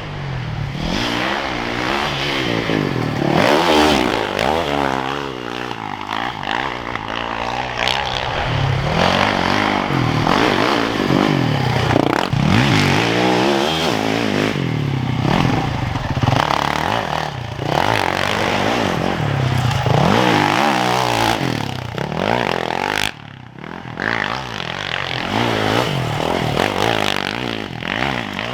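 Yamaha YZ450FX's single-cylinder four-stroke engine revving up and down over and over as the bike is ridden hard, with knocks and scrapes from the ride. The sound drops away briefly about five seconds before the end, then the revving picks up again.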